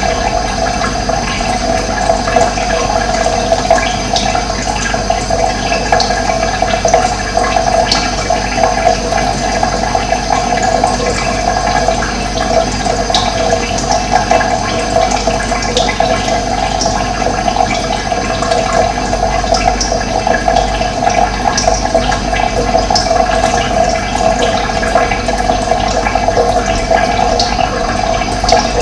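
Running water: a steady rushing flow that keeps an even level throughout.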